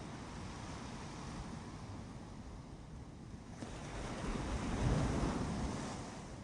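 Ocean surf on a beach: a steady wash of waves, with one wave swelling to a peak about five seconds in and then fading.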